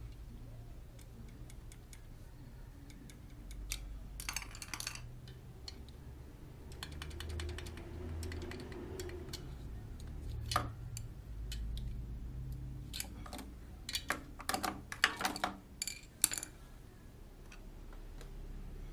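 Scattered sharp clicks and light metallic taps of hand tools being worked, with a quick run of clicks about seven seconds in and a busier cluster near the end, over a low steady hum.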